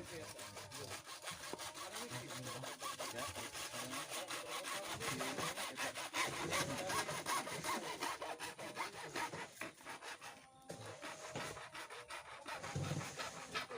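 Hand saw cutting with rapid, even back-and-forth rasping strokes, pausing briefly about three-quarters of the way through before resuming.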